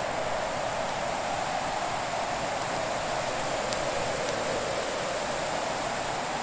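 Fire burning with a steady rushing hiss and a few faint, scattered crackles.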